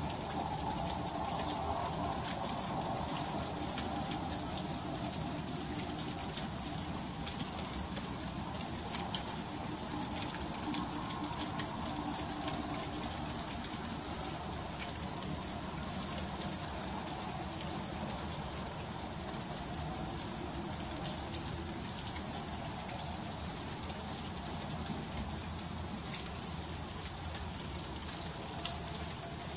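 Freezing rain falling steadily, with a dense patter of fine ticks as the drops and ice pellets strike surfaces.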